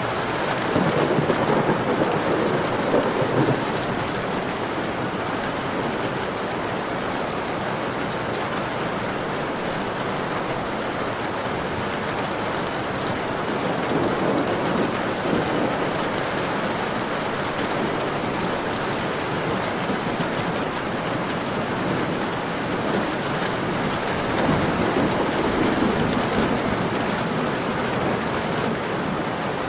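Steady heavy rain pattering on a window, with low rumbles of thunder swelling up three times: near the start, midway and near the end.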